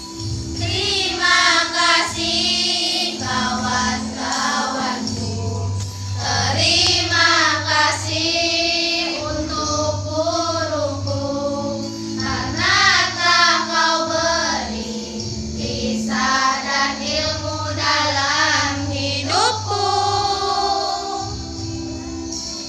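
Children's school choir singing a song together in phrases, with steady sustained accompaniment notes underneath.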